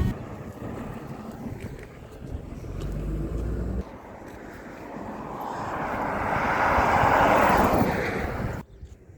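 Engine noise of a passing vehicle that swells to a peak over several seconds, then cuts off abruptly near the end.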